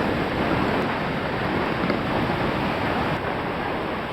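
Waterfall's rushing water, a steady, even noise.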